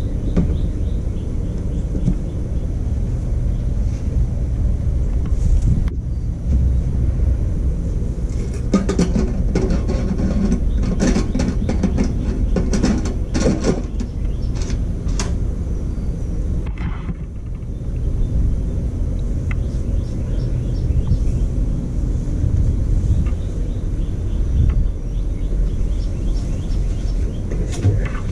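Small stump grinder's 13 HP Honda engine running steadily under load. From about a third of the way in to about halfway, there is a few-second stretch of rapid clattering from the cutter wheel chewing into the stump.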